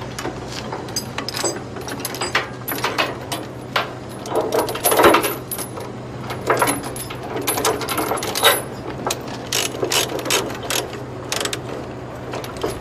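Steel tie-down chains clanking and a ratchet chain binder being cranked, clicking irregularly as it tightens the chain holding a tracked excavator down on a lowboy trailer. A steady low hum runs underneath.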